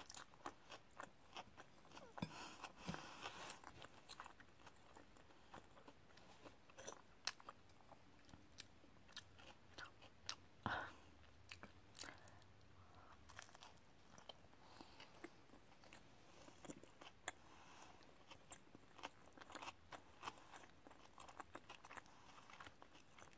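Faint chewing and crunching as a person bites into and chews bread topped with raw vegetables such as carrot, cucumber and lettuce. There are many small sharp mouth clicks, with a louder crunch about ten and a half seconds in.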